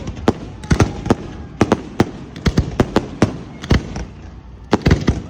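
Fireworks going off in a rapid, irregular series of sharp bangs, a few each second, with a brief lull around four seconds in.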